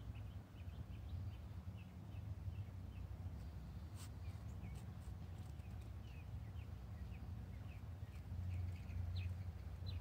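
Small birds chirping in the trees: short, high notes repeated several times a second, over a low steady rumble. A single sharp click about four seconds in.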